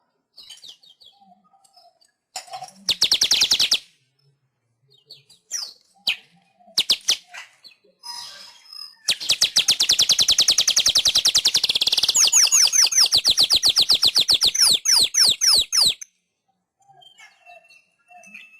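Manyar weaver bird singing: short bursts of rapid, high buzzy chatter, then a long fast trill of about seven seconds that breaks into a run of quick downward-sweeping notes before stopping suddenly.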